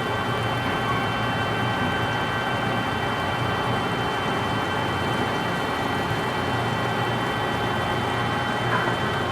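Lathe turning a large pot-bearing part: a steady machining hiss with several constant high tones from the running machine over it.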